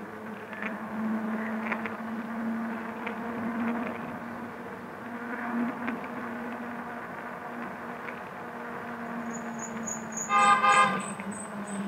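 City street traffic heard from a moving electric bike, with a steady low hum under it. About ten seconds in, a vehicle horn honks once, briefly and loudly, and a run of faint, high, evenly spaced beeps begins just before it.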